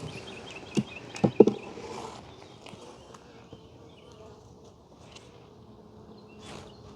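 Honeybees buzzing at an open hive with a faint, steady hum. A few sharp knocks come in the first second and a half.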